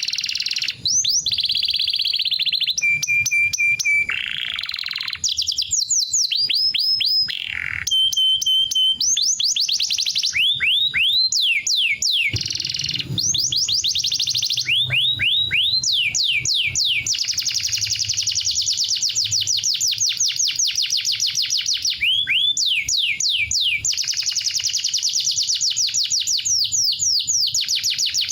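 Green canary singing a long, unbroken song of rapid trills and runs of quick falling notes, with a few held whistled notes in the first third.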